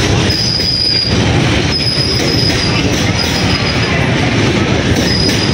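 A long train of loaded coal hopper wagons rolls past close by: a steady heavy rumble of steel wheels on the rails, with short high wheel squeals several times.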